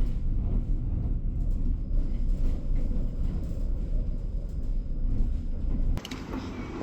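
Steady low rumble, cut off about six seconds in by a sudden drop to a quieter background.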